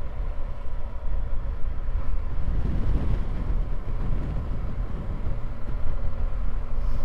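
Motorcycle riding along a road: steady engine running under a low rumble of wind and road noise.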